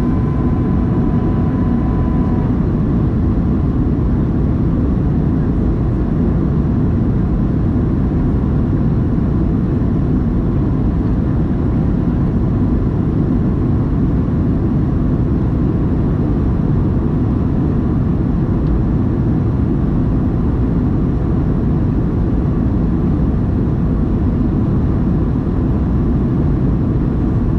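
Boeing 737-700's CFM56 engines and airflow heard inside the passenger cabin: a loud, steady low rush, with a high whine that fades away in the first couple of seconds.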